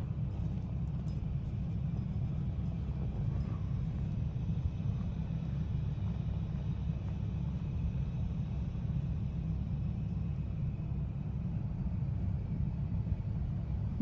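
Steady low rumble of a truck running on the road, with no change in level.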